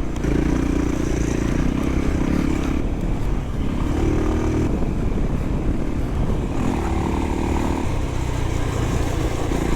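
Single-cylinder trail motorcycle engine running under way off-road, the revs rising and falling several times as the rider works the throttle through the puddles.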